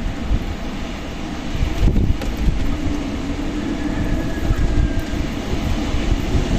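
Strong wind blowing in gusts, with heavy low rumble of the wind on the microphone under a wide hiss.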